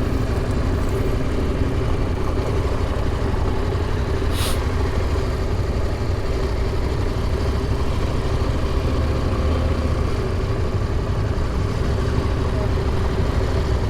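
Motorcycle engine running at low speed or idle, heard through an in-helmet microphone as a steady low rumble, with a brief hiss about four and a half seconds in.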